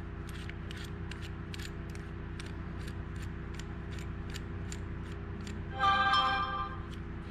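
A short electronic tone of several pitches, about a second long and about six seconds in, from a phone going off. It sounds over a steady low hum and light regular ticking, about two or three ticks a second.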